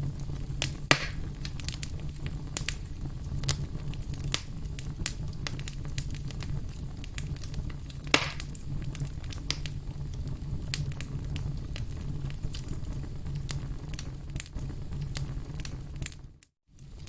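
Burning firewood crackling: a steady low rumble of flame under frequent sharp crackles, with two louder pops about a second in and about eight seconds in. The sound cuts out for a moment near the end.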